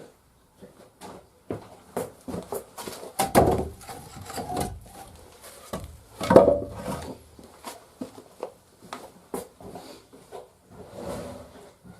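Firewood logs knocking and clattering as they are handled, with irregular wooden clicks and two heavier clattering thuds, about three and six seconds in.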